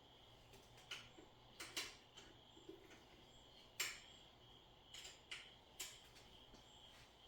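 Quiet handling noise during unboxing: about eight scattered light clicks and taps, the sharpest just under four seconds in, over a faint steady high-pitched hum.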